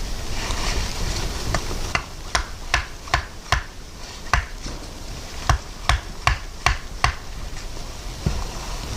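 A run of about ten sharp knocks, two or three a second with a brief pause midway, over a steady rushing noise.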